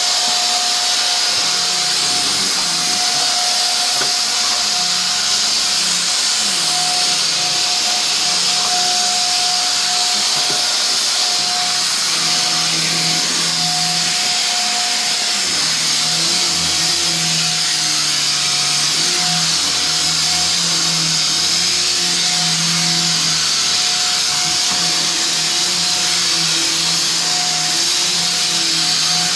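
Loud, steady whirring noise, like a motor running without a break, with a constant high whine over a lower hum that wavers in pitch.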